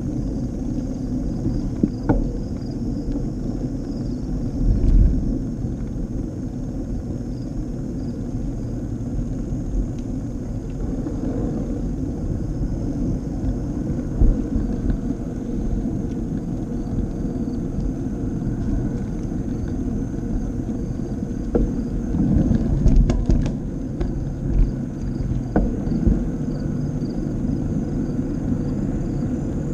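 Wind buffeting the microphone and bicycle tyres rolling on the path during a ride: a steady low rumble, with a few knocks and bumps from the bike, most of them a little after the middle.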